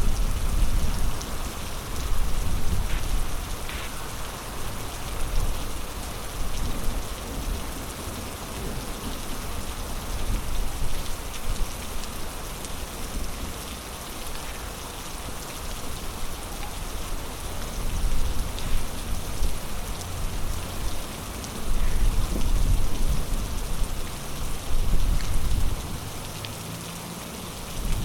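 Heavy storm rain falling steadily as a dense, even hiss. Low rumbles swell and fade every few seconds underneath.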